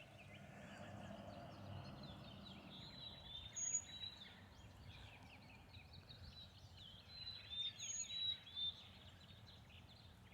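Faint songbird calls: short high chirps and whistles in two clusters, about four seconds in and again around eight seconds, over low steady outdoor background noise.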